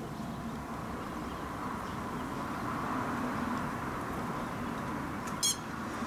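Steady outdoor background noise throughout, with one short, high-pitched bird chirp about five and a half seconds in.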